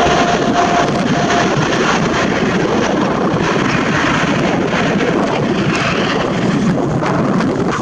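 Jet airliner taking off at full thrust: a loud, steady rushing roar of its engines. A faint whine in it fades out about a second and a half in.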